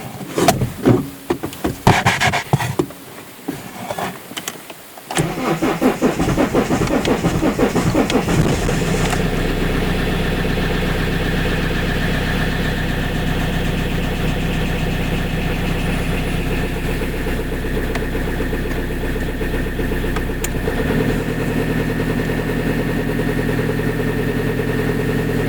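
Toyota 1CD-FTV 2.0 four-cylinder common-rail turbodiesel cold-started at −1 °C after standing two days on a slightly weak battery: a few seconds of irregular clunks and cranking, then the engine catches about five seconds in. It runs rough and loud for a few seconds, then settles into a steady idle, which changes tone slightly near the end.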